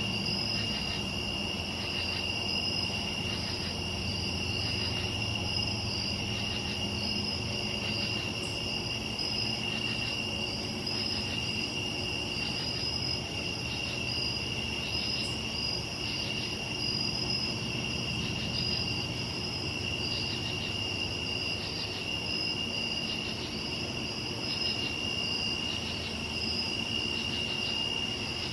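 Night insect chorus: crickets trilling in one steady unbroken high tone, with a higher insect call pulsing in a regular rhythm over it, above a low rumble.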